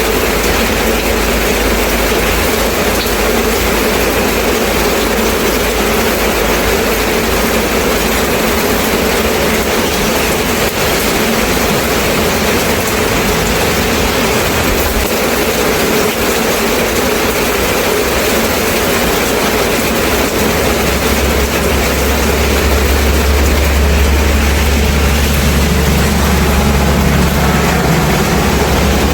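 Steady rain, an even hiss of falling water. About two-thirds of the way in a low rumble joins it and lasts almost to the end.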